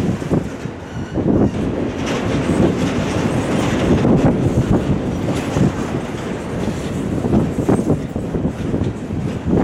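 Freight train of autorack cars rolling past, a steady heavy rumble of wheels on rail broken by many short knocks from the wheels and car connections.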